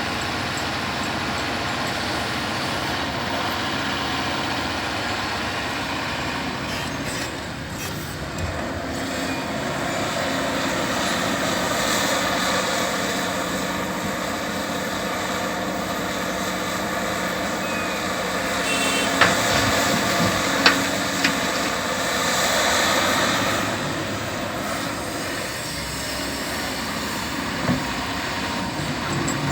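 Caterpillar 352F hydraulic excavator's diesel engine running steadily, its sound swelling and easing as it works. A few sharp knocks come about two-thirds of the way through and another near the end.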